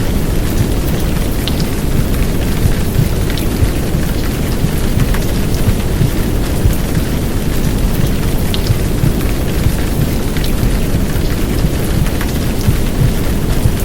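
Heavy downpour rain: a steady, dense rush weighted toward the low end, with scattered sharp drop ticks.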